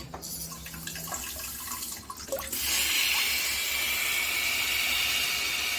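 Daelim Dobidos bidet spraying water from its wash nozzle, running on its own once the seat sensor is switched off. The spray grows clearly louder about two and a half seconds in and holds steady.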